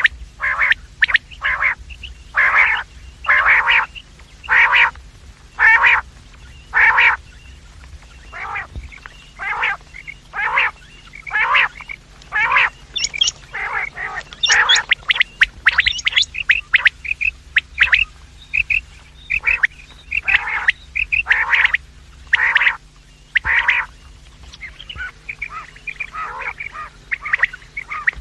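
Quail calling: short, harsh calls repeated about once a second, crowding together and overlapping in the middle, then breaking into many quicker, fainter notes near the end.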